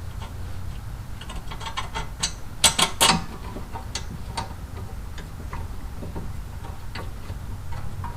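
Scattered light metallic clicks and taps from handling bolts and small hand tools during brake work, with a few louder clicks about three seconds in, over a low steady hum.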